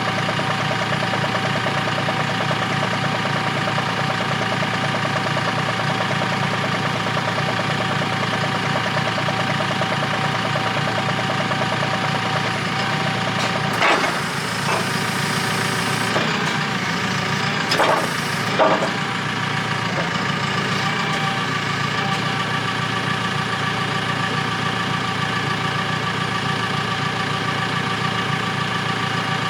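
Forklift engine idling steadily, with a few short knocks near the middle.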